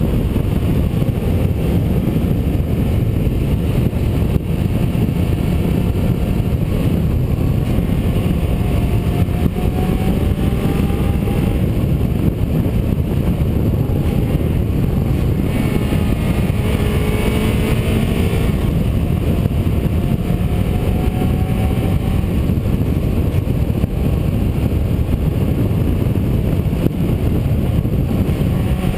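Vehicle driving along a winding road: a steady heavy rumble of road and wind noise, with a faint engine note that rises and falls in pitch as it speeds up and slows.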